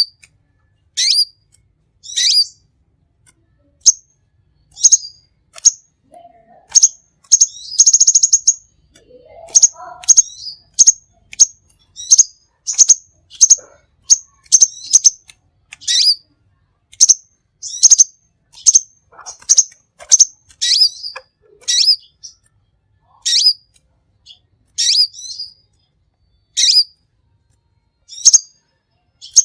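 Songbird calling with short, high chirps about once a second, with a longer buzzy rattle about eight seconds in.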